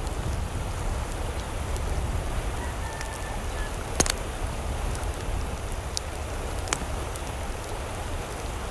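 Steady rain falling, with a few sharp drip-like clicks; the loudest comes about four seconds in. A faint held call sounds for about a second about three seconds in.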